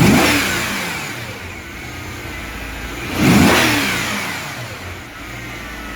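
Mercedes-Benz M273 5.5-litre V8 revved twice, at the start and about three seconds in, each time rising sharply and then falling back to a steady idle.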